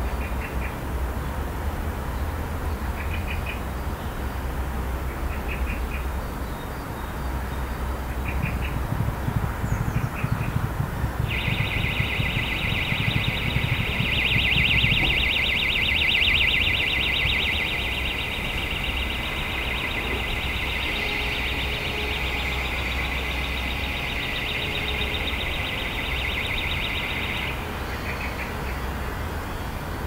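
Urban garden background with a steady low traffic rumble and a few short bird chirps in the first ten seconds. About eleven seconds in, a loud, high, rapidly pulsing sound starts and runs for about sixteen seconds before cutting off.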